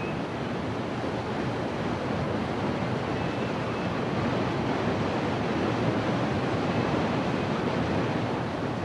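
Fast-flowing river rapids rushing steadily, a continuous even wash of white-water noise.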